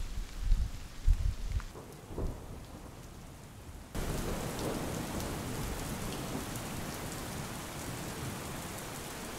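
Low rumbling buffets on the microphone for the first couple of seconds. About four seconds in, the sound switches abruptly to a steady hiss of rain with faint drop ticks.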